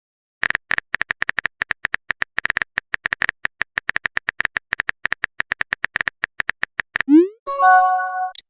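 Rapid typing sound effect, a fast even run of short clicks with a tinny beep in each, about nine a second. Near the end comes a quick rising bloop, then a held electronic chime of several tones and a brief high ping, like a chat app's message-sent alert.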